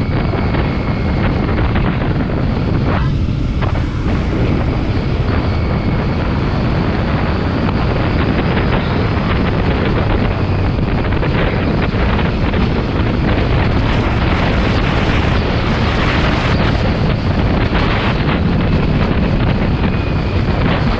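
Riding on a Triumph Rocket 3 motorcycle: wind buffeting the microphone over the steady running of the engine.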